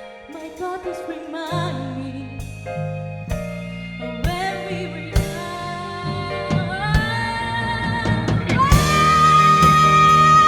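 Live band music with a singer: sparse sustained keyboard notes and voice at first, bass and drums coming in about one and a half seconds in, building to a long, loud held sung note near the end.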